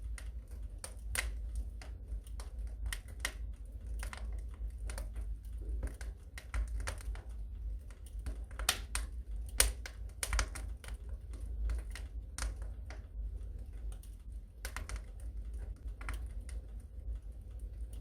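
Wood fire in a fireplace crackling: irregular sharp pops and snaps at uneven intervals over a steady low rumble.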